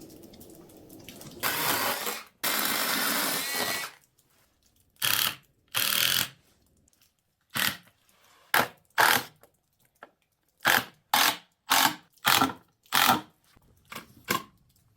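A power drill run in short trigger bursts: two longer runs of about a second near the start, then about ten brief, irregular bursts with pauses between, as when driving or drilling into wood.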